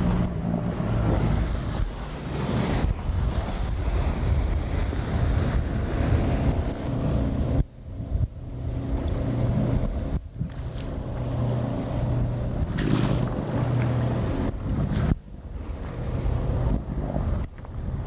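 Motorboat under way: a steady engine drone with wind buffeting the microphone and water rushing past. The sound cuts out abruptly for a moment three times.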